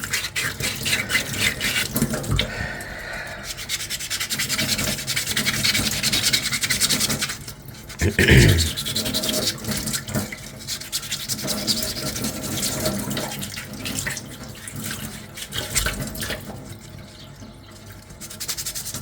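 Sandpaper rubbed back and forth by hand over a small 3D-printed plastic finger armour piece, a continuous scratchy run of quick strokes. A brief louder bump sounds about eight seconds in.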